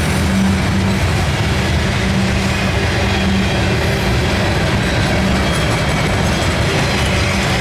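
Freight train rolling past close by: a steady loud rumble of wheels on the rails.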